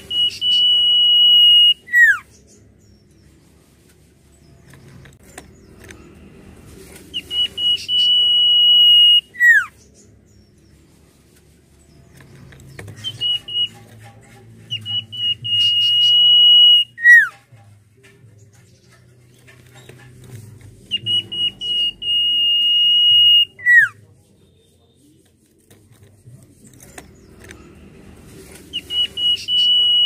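Common iora (cipoh) singing: each phrase opens with a few short notes, holds a long steady high whistle, and ends with a quick falling note. The phrase comes about every seven seconds, four times over, with a fifth starting near the end.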